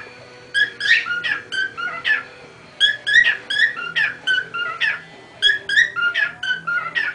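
Cockatiel whistling its song, a phrase of gliding notes repeated three times with short pauses between.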